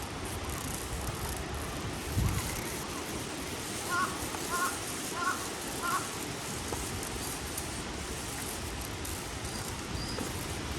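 A crow cawing four times, one call roughly every two thirds of a second, over a steady rushing background. A single low thump comes about two seconds in.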